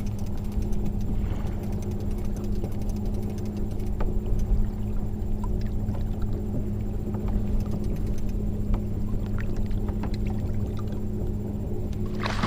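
Steady low rumble of a kayak on open water, with a constant low hum and scattered faint ticks.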